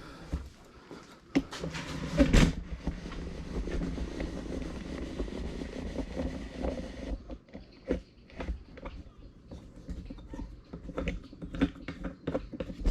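Knocks of handling, then a steady hiss that stops abruptly about seven seconds in, followed by scattered light clicks and clinks of hand tools and engine parts during an engine teardown.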